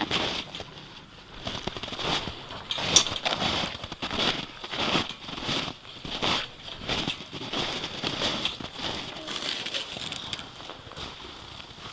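Footsteps walking, uneven steps about one a second, over a faint steady high hiss.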